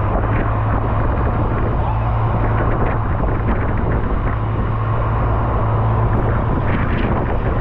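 Boat engine running with a steady low hum under a dense hiss of heavy rain.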